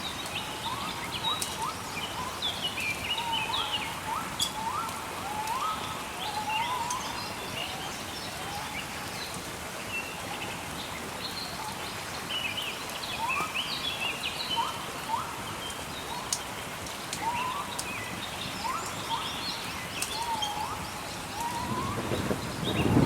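Small birds chirping again and again, short rising calls, over a steady watery hiss of rain, with scattered faint crackles of a wood fire. Near the end a low rumble of thunder swells up and becomes the loudest sound.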